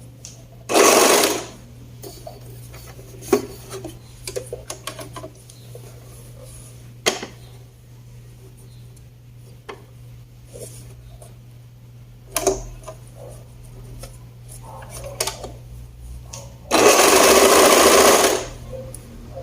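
Sewing machine stitching a shoulder seam in two runs: a short one about a second in and a longer one of about a second and a half near the end. Light clicks and handling of the machine and fabric fall between the runs, over a steady low hum.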